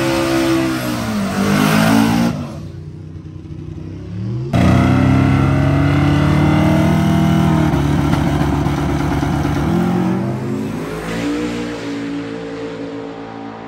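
A drag-racing truck's engine at full throttle. Its pitch dips and the sound drops away about two seconds in, then comes back suddenly and loud. It then falls slowly in pitch and fades toward the end as the truck pulls away down the strip.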